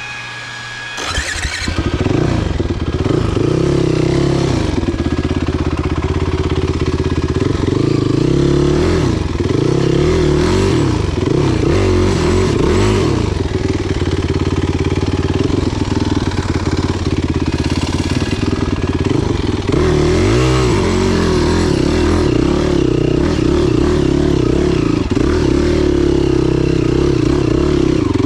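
Enduro motorcycle engine comes in loudly about a second in, then runs hard with the revs rising and falling over and over as the bike is ridden off-road.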